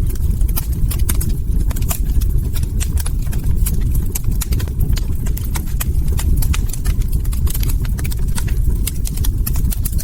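Log fire crackling: frequent irregular sharp pops and snaps over a steady low rumble.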